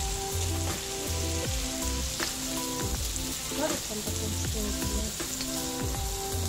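Lamb pieces and sliced onion sizzling in hot oil in a thin-walled wok as a spoon turns them, under background music with held notes and a repeating bass line.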